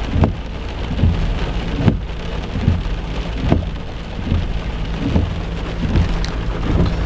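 Steady rain falling, with a low steady rumble underneath and soft thumps about once a second.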